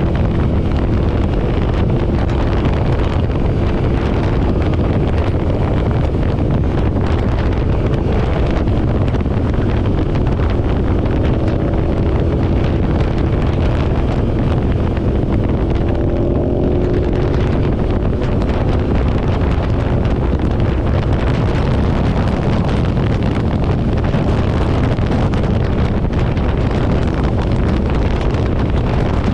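Wind rushing over the microphone of a moving motorcycle, with the engine's hum running faintly underneath; the engine note shifts in pitch a little around the middle.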